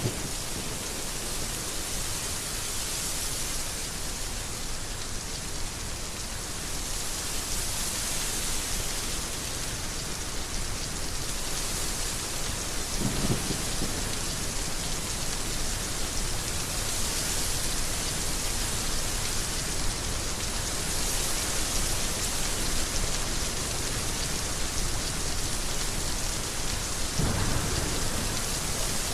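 Heavy rain falling steadily, with two short low rumbles of thunder, one about halfway through and one near the end.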